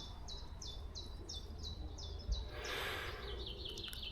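A small songbird singing a rapid series of short, repeated chirps, about four a second, which pause briefly partway through and then resume a little faster.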